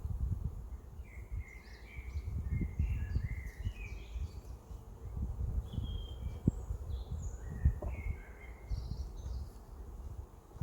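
Songbirds chirping and singing in short phrases, over a low uneven rumble on the microphone.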